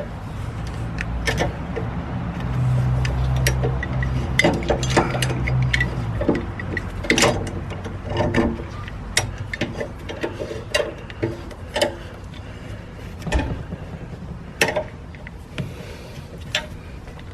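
Hand tools clinking and knocking on a mower deck and blade in irregular sharp clicks while the blade bolt is worked loose. A low hum runs under the first few seconds.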